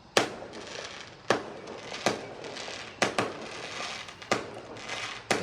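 Fireworks going off: about seven sharp bangs at uneven intervals.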